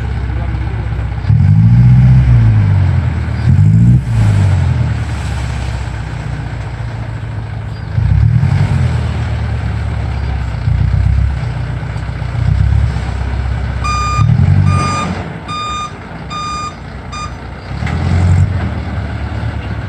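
Truck's diesel engine running and revving up and down several times. Near the middle a reversing alarm gives five short, evenly spaced beeps.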